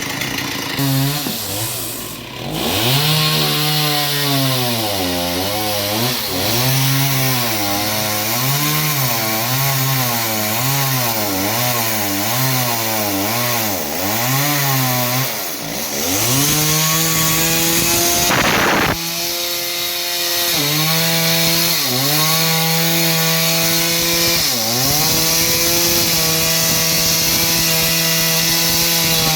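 Two-stroke chainsaw cutting through a log: the engine pitch swings up and down about once a second as the bar bites and eases, then it holds at high revs with a few brief dips as it cuts.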